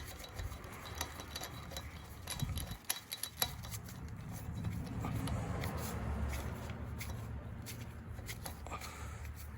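Extended-thread spline lug nut being spun by hand onto a Toyota 4Runner wheel stud: a light rasp of metal threads with small clicks as it turns. A low steady rumble sits underneath from a few seconds in.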